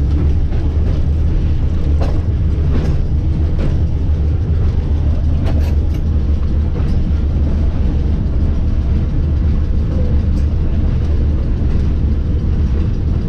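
A 100-year-old electric streetcar rolling along its track, a steady low rumble with scattered clicks and knocks from the wheels and car body.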